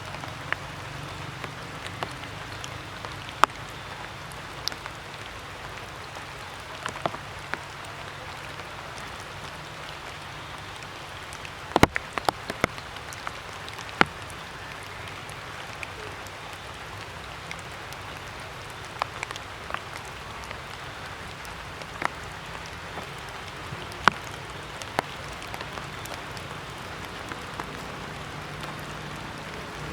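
Water drops falling after rain, scattered sharp ticks of drops striking surfaces over a steady hiss, with a quick cluster of drops about twelve seconds in.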